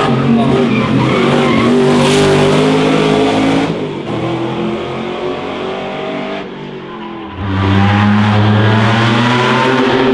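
Classic racing car engines running hard at high revs, their pitch shifting with the throttle. The engine sound drops away after nearly four seconds and comes back abruptly loud with a steady, deep note about three quarters of the way through.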